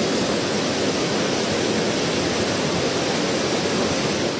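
Steady, even rushing of heavy water, typical of torrential rain or fast floodwater.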